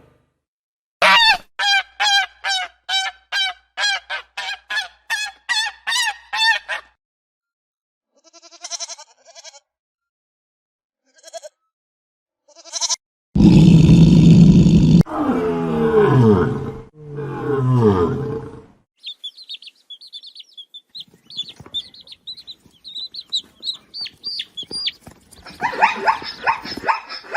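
A series of different animal calls: first a run of about a dozen evenly spaced honking calls from a duck or goose, then a few short calls, a loud rough call with two falling calls after it, and high peeping in the last third.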